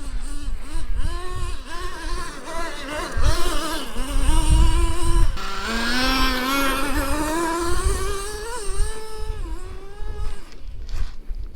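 Traxxas T-Maxx 3.3 nitro engine revving up and down as the RC truck is driven. From about five seconds in it holds a long, steadily rising climb in pitch, then drops back near the end.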